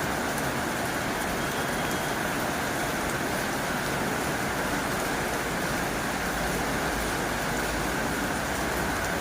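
Heavy rain falling on a tin roof, a dense, steady wash of rain noise with no single drops standing out.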